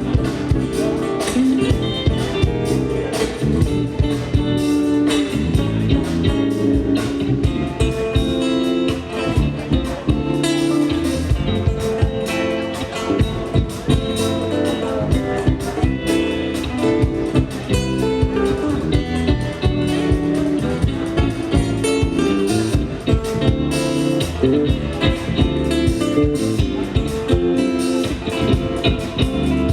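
Live band music with a steady beat, playing without a break.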